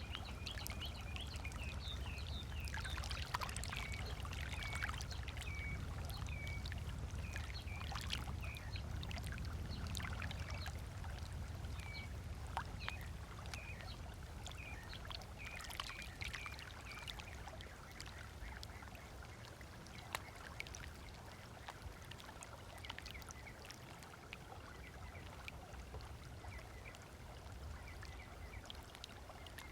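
Small waves lapping on a sandy beach, with a bird repeating a short chirp about twice a second through the first half and calling now and then later. A low rumble underneath fades away over the first half.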